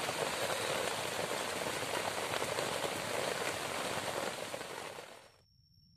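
Heavy rain falling steadily, a dense patter that fades out about five seconds in.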